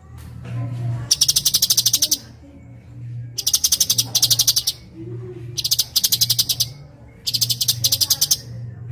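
Cucak cungkok song: four bursts of rapid, high staccato notes, each about a second long at roughly ten notes a second, delivered as quick-fire 'tembakan'. A low steady hum runs underneath.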